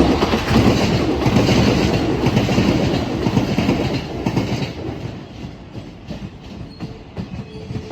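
Kintetsu Minami-Osaka Line electric train passing a level crossing, its wheels clattering over the rail joints; loud for the first four and a half seconds, then fading as it moves away.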